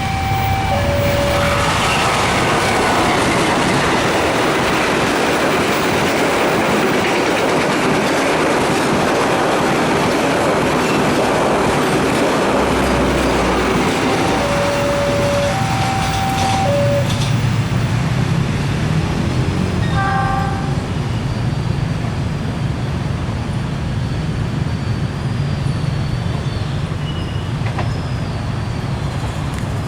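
A train passing at speed, its horn sounding in held blasts that alternate between two pitches at the start and again about halfway through. The close pass makes a loud rush of rail noise for the first half, which gives way to a lower rumble of the train, with a faint, wavering high whine of wheels near the end.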